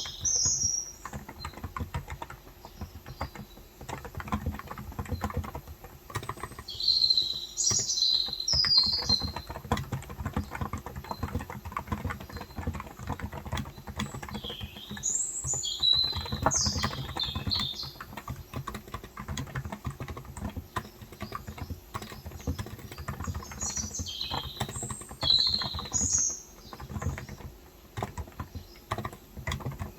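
Continuous typing on a Cox Endeavor tenkeyless keyboard with 35 g electrostatic capacitive (non-contact) switches, a steady stream of soft keystrokes. Small birds chirp in four short bursts spread through it.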